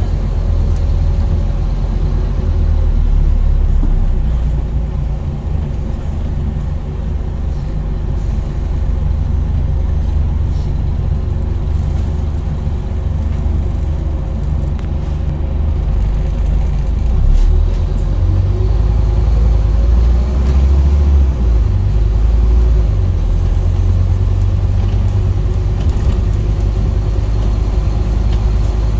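Scania N230UD double-decker bus's diesel engine heard from on board while driving, a steady low rumble that swells and eases as the bus pulls along.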